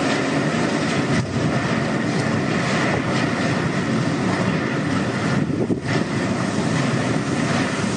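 Strong typhoon wind and heavy rain, a loud steady rushing noise with a brief dip about six seconds in.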